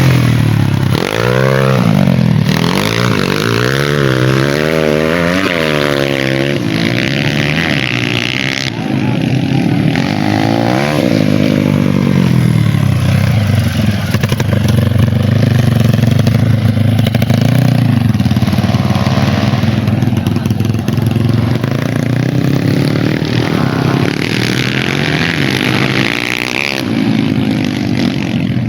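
Several dirt bike engines running at once, revved up and down over and over, with the hardest revving in the first seven seconds and again at about 11 and 26 seconds, and a steadier engine drone in between.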